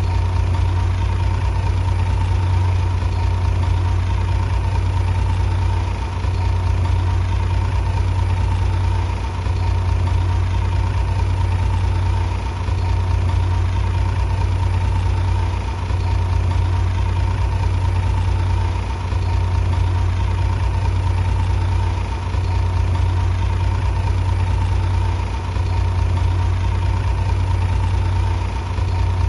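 Heavy engine running steadily with a low hum and a thin steady whine above it, dipping briefly about every three seconds.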